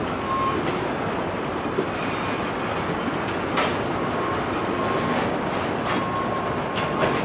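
Freight cars rolling on yard track: a steady rumble with a few sharp clicks from the wheels and a faint, thin wheel squeal that comes and goes.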